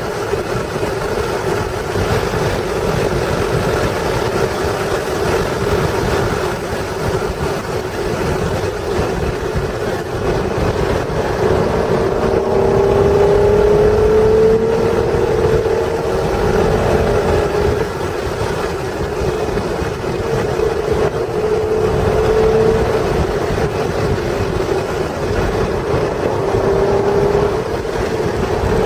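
1996 Acura NSX's stock 3.0-litre V6 pulling hard at speed, its note rising several times as it accelerates through the gears. It is heard under heavy wind and road noise on the car's onboard microphone.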